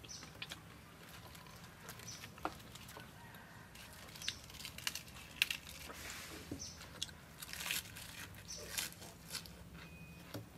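Close-up eating sounds: a person chewing and biting roasted turtle meat and a raw cabbage leaf. Scattered crunches and mouth clicks come sparse at first and grow denser past the middle.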